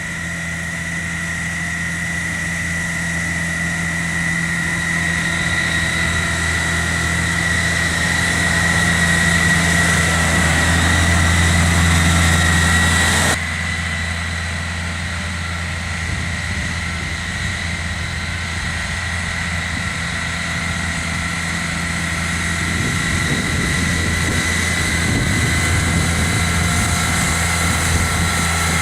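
John Deere compact tractor engine running steadily while driving a snow blower, with a low hum and a steady high whine over it. The sound changes abruptly about 13 seconds in, then builds again near the end.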